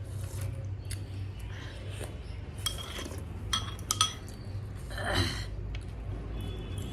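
A metal spoon clinking and scraping against a dish while eating, with a few sharp ringing clinks around the middle.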